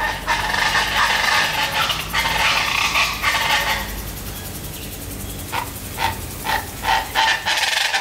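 Birds calling loudly in the trees: a dense chorus of overlapping calls for about four seconds, then single short calls repeated about twice a second.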